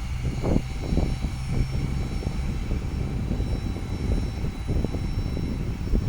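Low, uneven rumble of a distant jet airliner's engines as it moves along the runway.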